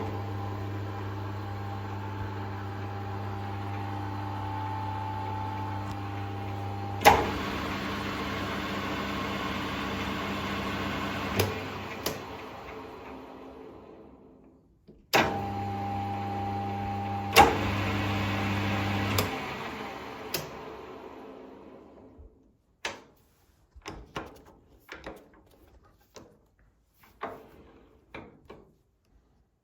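The geared headstock of an Emco Maximat Super 11 metal lathe, driven by its two-speed 3-phase motor, starts suddenly and runs with a steady hum. A sharp click comes about a third of the way in, then the lathe is switched off and spins down. It starts again, with another click, and runs down a second time. Scattered light clicks and knocks follow.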